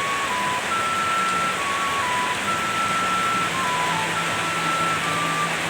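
Heavy rain falling in a steady hiss, with a thin electronic tune of single held notes, stepping between a few pitches, in the background.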